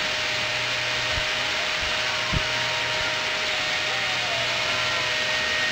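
Hair dryer blowing steadily, an even rushing hiss with a faint constant whine. There are a couple of soft low bumps about two seconds in.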